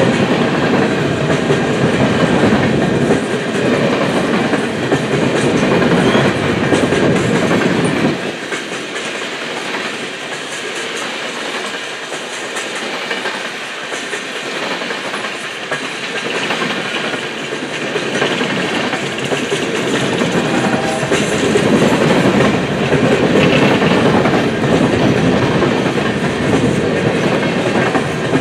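Coal train's hopper cars rolling past, with steady wheel clatter over the rail joints and a low rumble. The rumble eases about a third of the way through and builds again in the second half.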